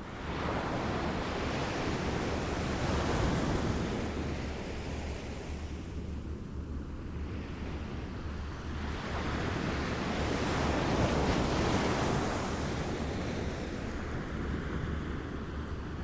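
Small waves lapping on a shore, washing in and ebbing in slow swells, with two larger washes about seven seconds apart. A steady low rumble runs underneath.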